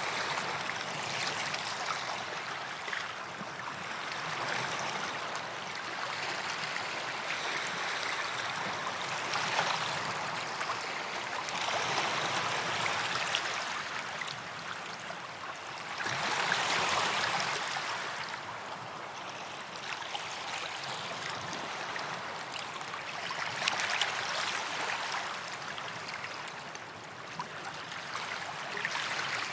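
Small sea waves lapping and washing on a sandy shore, the hiss of the surf swelling and fading every few seconds.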